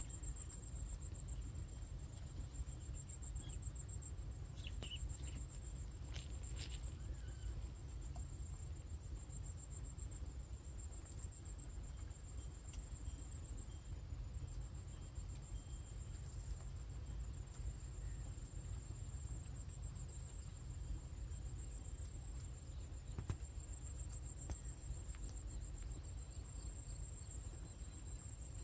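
Insects, crickets or similar, chirring in a steady high pulsing trill over a low steady rumble, with a few faint short calls about five to seven seconds in.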